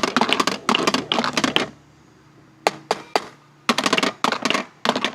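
Marbles clicking and clacking against each other and the track of a marble run: a fast rattle of hits in the first second and a half, a few single knocks, then more quick clusters of clicks near the end.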